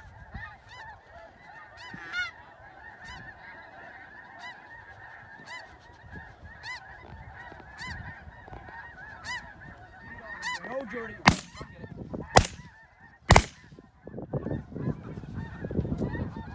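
A large flock of snow geese calling, many overlapping high calls at once. About eleven seconds in, three shotgun blasts go off about a second apart.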